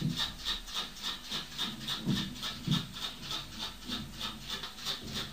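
Rapid rhythmic tapping, about four taps a second, with a few heavier dull thumps among it, which the recorder takes for neighbours thumping from the flat upstairs.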